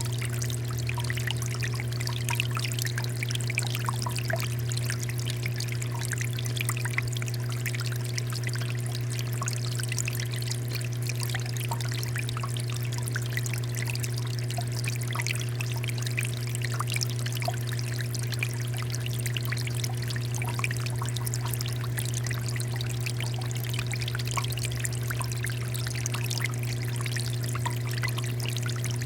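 Water fountain with water falling and splashing steadily: a continuous pouring trickle full of small droplet splashes, over a steady low hum.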